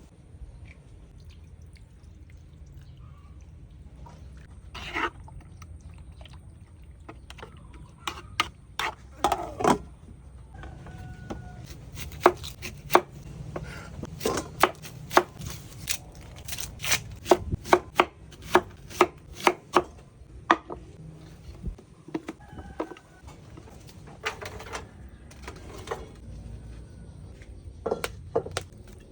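Knife chopping on a cutting board in irregular runs of quick strokes, with pauses between runs.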